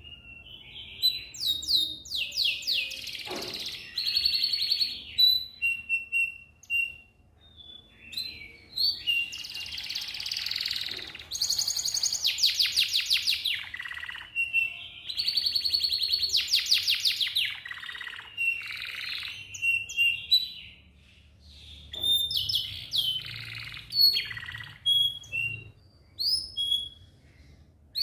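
Domestic canary singing: phrases of fast rolling trills and clear whistled notes, broken by short pauses.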